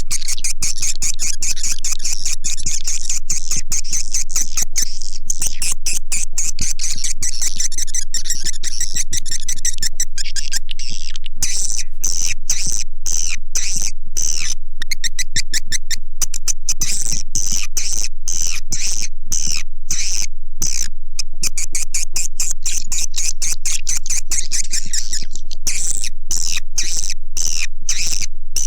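Edible-nest swiftlet calls played as a swiftlet-house lure sound: a loud, high-pitched twittering of rapid clicking chirps in repeated bursts with brief breaks.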